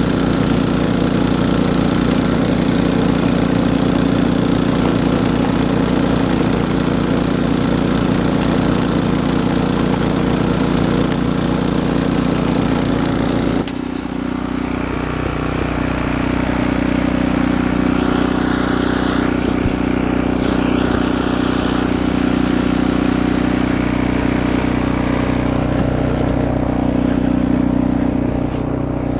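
Snowblower engine running steadily. About halfway through the sound dips briefly and the engine note changes, then it runs on steadily.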